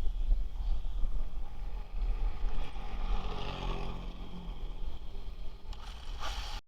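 Wind buffeting the microphone over the faint whine of a brushless-motor RC truck, which is strongest in the middle and then fades.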